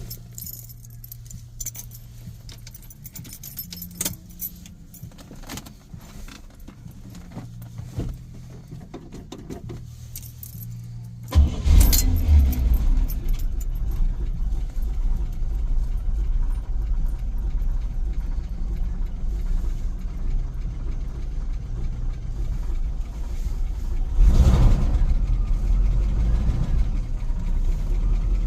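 Keys jangling and clicking with a low hum for about eleven seconds, then the Buick Skylark's engine starts from cold, catching suddenly and running steadily. A brief rev about twenty-four seconds in, then it settles back to idling.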